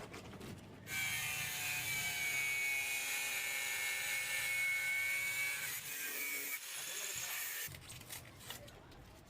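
A power tool running steadily with a high whine and hiss, starting about a second in and stopping after about seven seconds.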